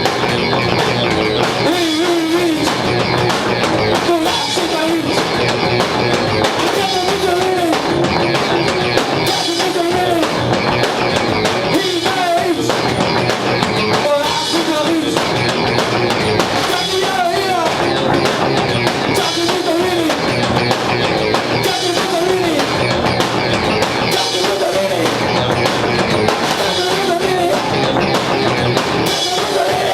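Live rock band playing loud garage punk in a home garage: drum kit and electric guitar driving a steady, dense song.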